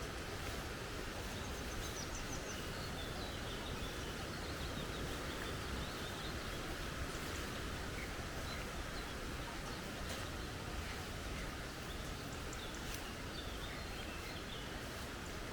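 Steady rush of a flowing creek, with faint high bird chirps a couple of seconds in and again near the end.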